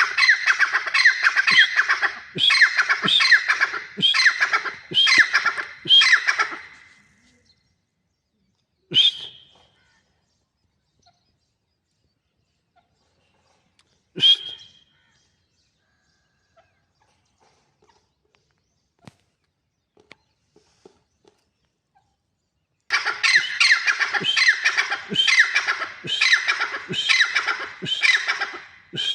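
Grey francolin calling in loud bouts of repeated phrases, about one a second. A first bout of about seven phrases is followed by two single short notes and a quiet stretch, then a second bout of about six phrases near the end.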